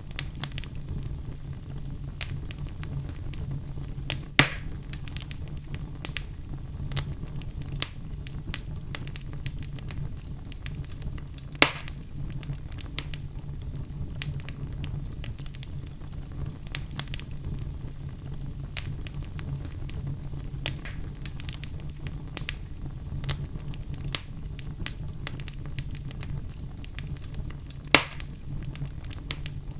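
Wood logs burning in a fireplace: a steady low rumble of flame with frequent small crackles, and three louder sharp pops about four seconds in, near the middle and near the end.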